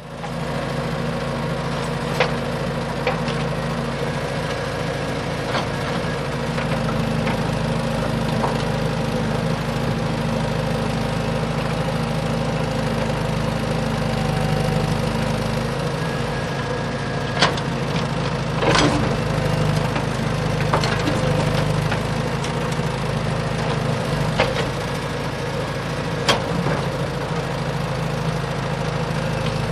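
A small engine running steadily at an even idle-like speed, with a few sharp clicks or knocks over it.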